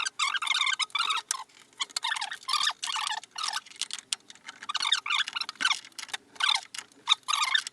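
A 24 mm spanner working the ball joint bolts on a VAZ-2111's front suspension. The sound is short, irregular bursts of metallic clicking and scraping, with brief pauses.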